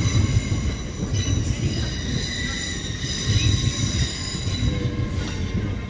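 Railway locomotive moving slowly with its wheels squealing on the rails: several steady high-pitched squealing tones over a low rumble.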